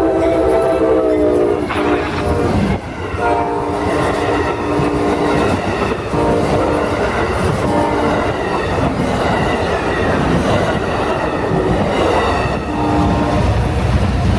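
Amtrak Silver Star passenger train passing close by and sounding its multi-tone air horn in several blasts, two long and the rest shorter, with the last one near the end. Under the horn the train rumbles and its wheels clatter over the rail joints.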